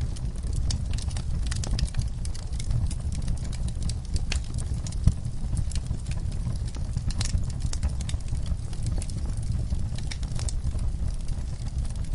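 Wood fire burning in a fireplace: a steady low rumble of flames with irregular crackles and pops, one louder pop about five seconds in.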